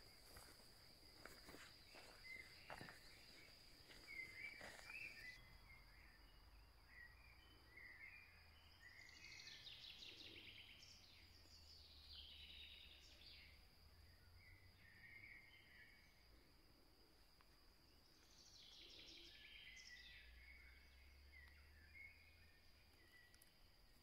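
Near-silent forest ambience with faint, distant songbird phrases, a few short bursts about nine, twelve and nineteen seconds in. A few soft clicks come in the first seconds.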